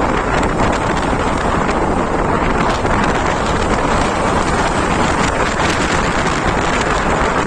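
Steady, loud wind buffeting the microphone of a vehicle on the move, with road noise underneath.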